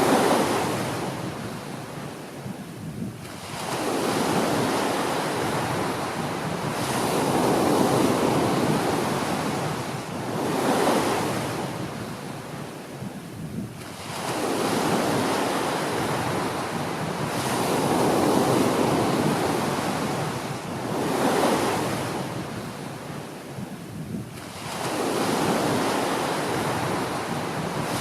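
Small ocean waves breaking and washing up a beach, the rush swelling and ebbing every three to four seconds.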